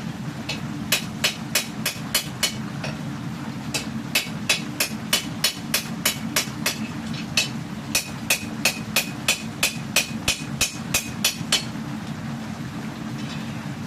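Hand hammer striking hot steel on an anvil while forging a katana blade: runs of ringing blows, about three a second, with short pauses between runs, stopping a couple of seconds before the end. A steady low rumble runs underneath.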